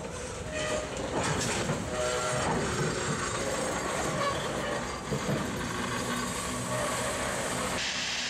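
Freight cars rolling slowly past close by, their wheels rumbling and clicking over the rail with short high squeals. A hiss comes in near the end.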